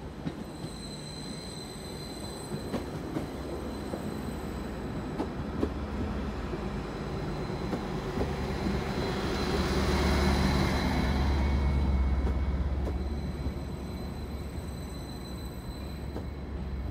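Class 755 bi-mode multiple unit arriving slowly alongside the platform, with a low running hum and a faint steady high whine. It grows louder as the train comes alongside and is loudest about ten seconds in as the middle of the train passes, then eases off.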